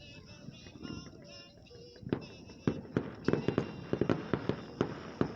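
Aerial fireworks display. It opens with high, wavering tones, then about two seconds in breaks into a rapid run of sharp bangs and cracks, several a second, that keeps going.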